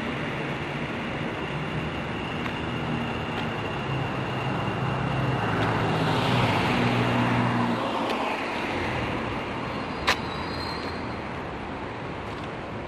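A vehicle passing close by: a low hum and rushing noise that swell about six seconds in and then fade away. A single sharp click comes near the end.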